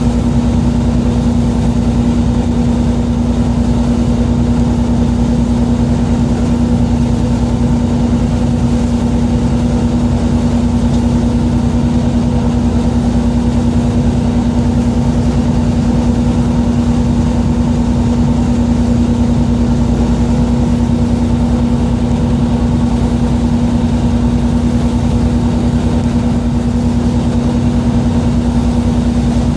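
A fishing boat's engine running steadily: a loud, constant low hum with a strong steady tone, unchanging throughout.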